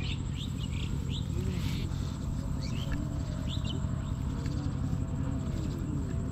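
Short, quick bird chirps, a cluster at the start and a few more near the middle, over a steady low rumble.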